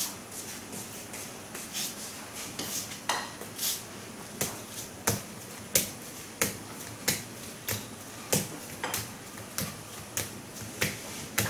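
A series of sharp clicks or knocks, irregular at first and then falling into a steady beat of about three every two seconds.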